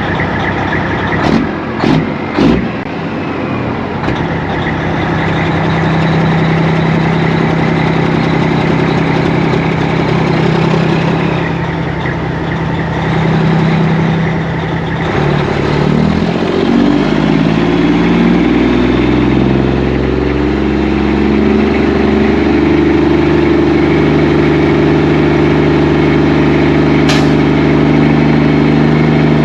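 Diesel engine of a semi truck pulling away and gathering speed. There are a few sharp clicks in the first couple of seconds. The engine note steps up and changes pitch repeatedly about halfway through, as it works up through the gears.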